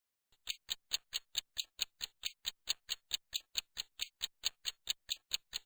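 Steady clock-style ticking sound effect, about four evenly spaced ticks a second, filling a timed pause for the learner to answer.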